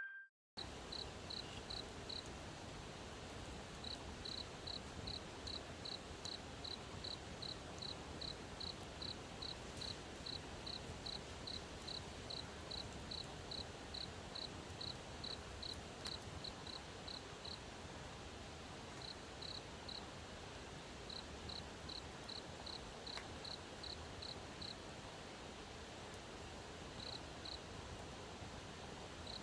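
Cricket chirping: short, even chirps about twice a second in long runs, broken by a few pauses, over a soft steady hiss.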